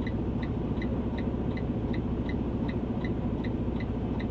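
Vehicle running, a steady low engine and road rumble heard from inside the cab, with a light, even ticking about three times a second.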